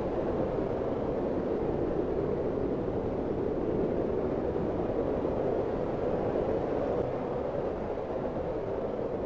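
Snowstorm wind blowing hard and steadily, a dense rushing noise with no breaks or gusts, easing slightly near the end.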